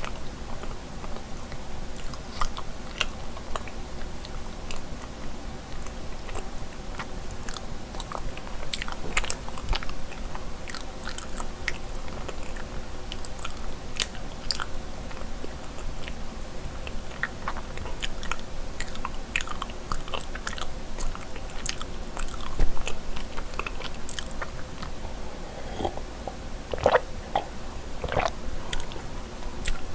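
Close-miked chewing of a soft mochi rice cake filled with cream cheese: a steady run of small wet mouth clicks and smacks. A few louder mouth sounds come near the end.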